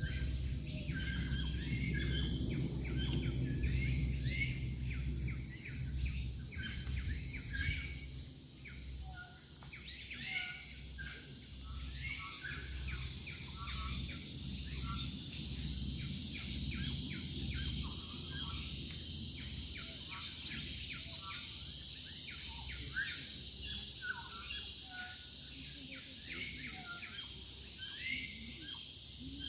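Wild birds chirping and calling in many short, rapid notes, several overlapping, over a steady high hiss. A low rumble sits underneath in the first several seconds and then eases.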